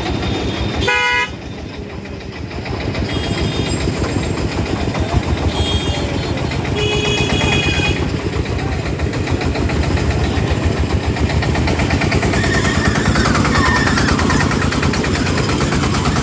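Vehicle horns honking several times in short blasts over the steady running of truck engines.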